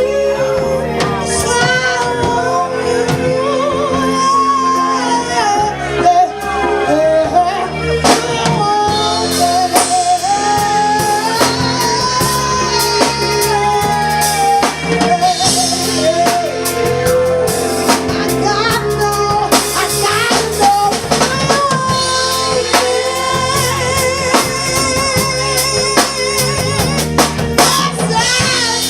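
Live band playing a song: a singer's voice carries the melody over a drum kit and backing instruments.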